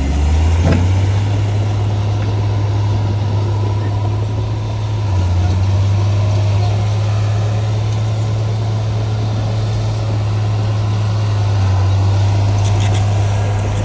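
Heavy construction machine's diesel engine running steadily, a loud low drone that shifts slightly in pitch a few times.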